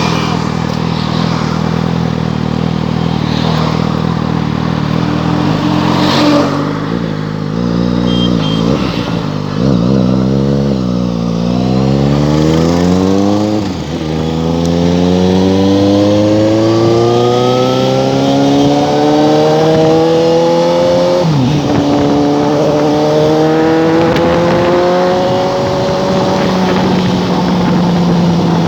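Suzuki GSX-S750's inline-four engine with a loud exhaust: running steadily at first, then revved up and down, then pulling up through the revs in long rises. The pitch drops suddenly once, like a gear change, before climbing again and levelling off.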